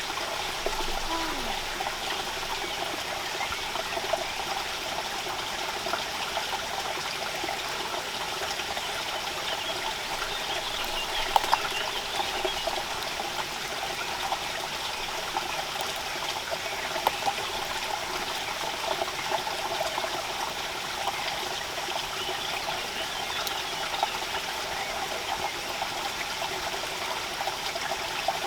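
Steady rain falling, with many small drips and patters.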